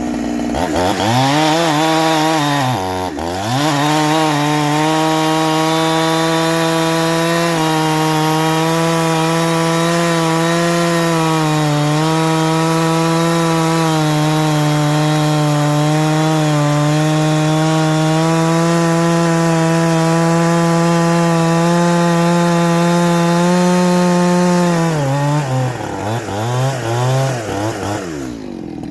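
Ported Farmertec G372XT two-stroke chainsaw cutting wood. The engine dips sharply about three seconds in and picks straight back up, then holds a steady high speed under load for about twenty seconds. Near the end the pitch drops and wavers as the saw comes off the cut.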